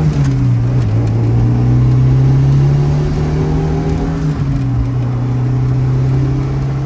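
Turbocharged Honda B-series four-cylinder in an EK Civic, heard from inside the cabin while it pulls away through the gears. The engine note climbs steadily and drops at a gear change just after the start and again about four seconds in.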